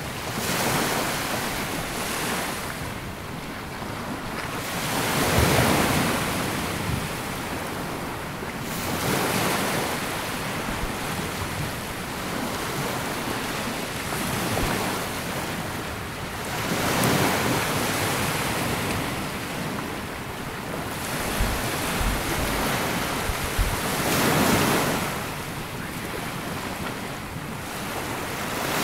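Small waves breaking and washing up a sandy beach, each swell rising and falling every few seconds, with some wind buffeting the microphone.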